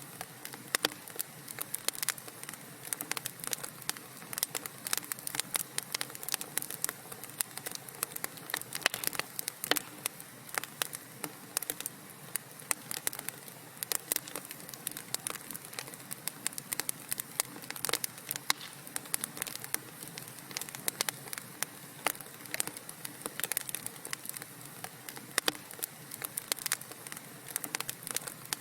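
Burning wood crackling in a fireplace: a dense, irregular run of sharp pops and snaps over a soft steady hiss.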